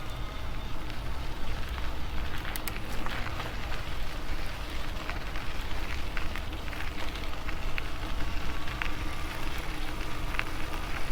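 Wind buffeting a foam-covered lapel microphone on a moving e-bike riding into a headwind: a steady low rumble, with scattered small clicks and crackles.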